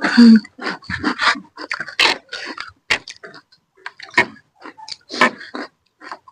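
Eating noodle soup: an irregular string of short slurps and chewing smacks as noodles and broth are eaten.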